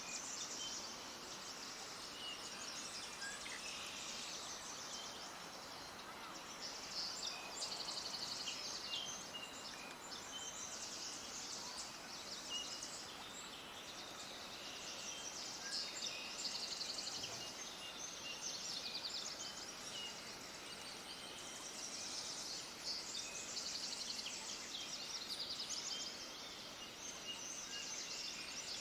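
Many small birds chirping and twittering together in dense, overlapping runs of short high notes that swell and ease off every few seconds, over a steady outdoor hiss.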